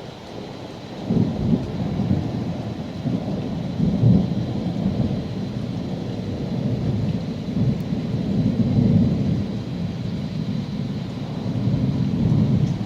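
Rolling thunder that builds about a second in and swells several times, over steady rain.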